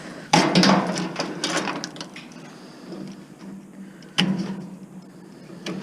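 Metal parts of a scrap appliance being pried and worked loose by hand: a sharp knock about a third of a second in, then a second or so of clattering and scraping, scattered clicks, and another sharp knock about four seconds in.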